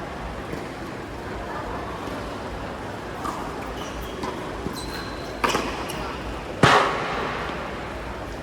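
Tennis ball struck by rackets: two sharp hits a little over a second apart, the second the louder with a short ring, after a few lighter ticks, over faint voices.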